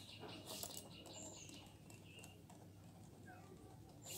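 Near silence with faint birds chirping in the background: a few short whistled notes and a quick repeated trill that fades after the first second or so.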